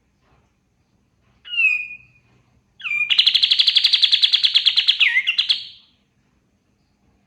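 Kapas tembak songbird singing: a short whistled note gliding down, then a long fast trill of about ten notes a second lasting some three seconds.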